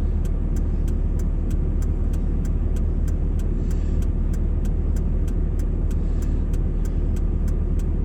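Steady engine and road rumble heard from inside a moving vehicle, with a faint light ticking about four times a second.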